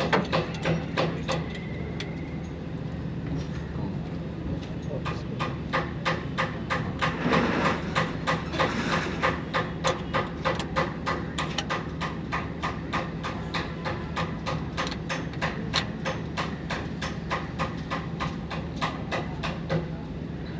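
Repeated hammer strikes, about three a second and fairly even, over a steady low hum.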